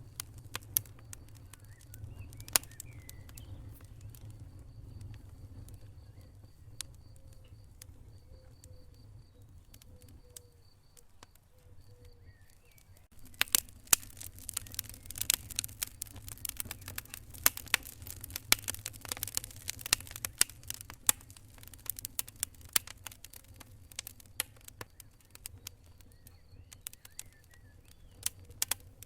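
Wood fire burning in a fireplace: sharp crackles and pops over a low rumble, sparse at first and much denser from about halfway through.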